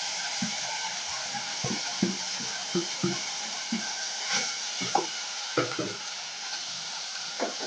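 Tomatoes sizzling in a pot of cooked meat, a steady hiss, with irregular knocks and scrapes of a spoon stirring against the pot.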